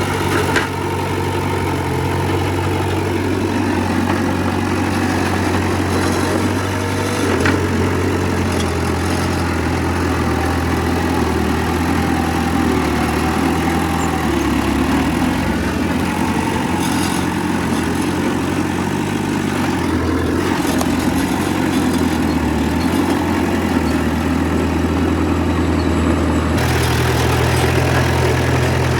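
Diesel engine of heavy earthmoving machinery running steadily, with a sharp knock near the start and another about a quarter of the way through; the sound grows brighter and a little louder near the end.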